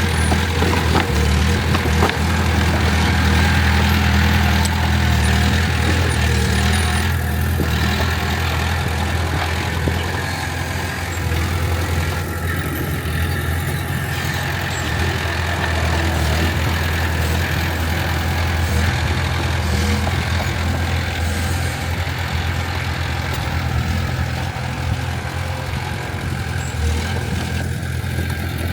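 Diesel engine of heavy earthmoving equipment running steadily with a deep, even hum, a little louder in the first ten seconds or so.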